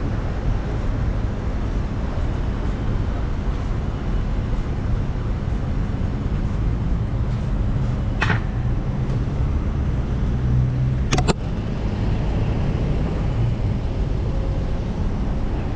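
Steady wind rush and low road rumble on the microphone of a camera riding along on a bicycle, with two short sharp clicks about eight and eleven seconds in.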